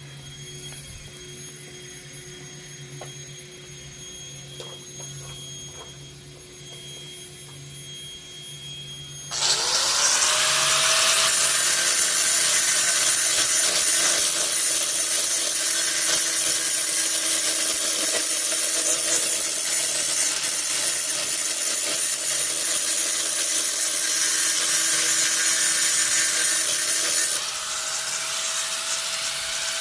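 A steady low hum, then about nine seconds in an electric grinder spins up and grinds steadily on the metal handle for the rest of the time, easing slightly near the end. The grinding is most likely smoothing down the new weld.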